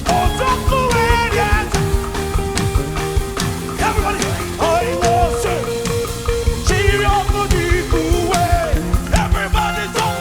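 Live gospel band music: a drum kit keeping a steady beat under sustained chords, with a lead melody line that bends and wavers.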